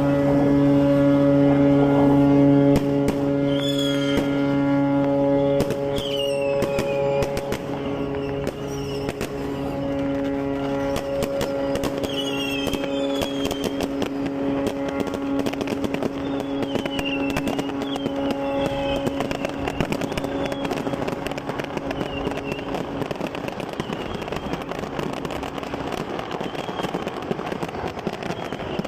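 Ship's horn sounding a long steady blast that is loudest at the start and fades out near the end. Firecrackers pop throughout, and short falling whistles come every few seconds.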